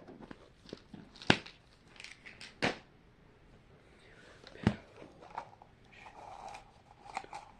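Plastic packaging and small toy miniatures being handled and set down: a string of sharp clicks and knocks with light crinkling, three louder clicks standing out.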